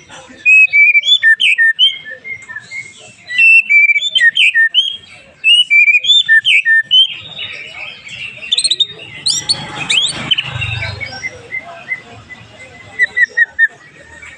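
White-rumped shama (murai batu) singing fast, loud whistled phrases of short rising and falling notes. In the second half the song turns rougher, with high rising sweeps over a low rumble.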